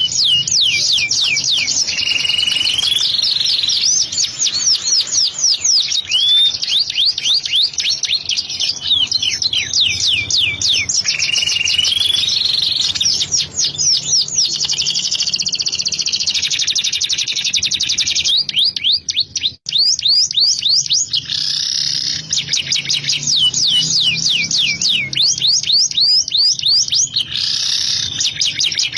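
Domestic canary singing a long, continuous song of rapid trills made of quick downward-sweeping notes, mixed with rising whistled glides, with a brief break about two-thirds of the way through.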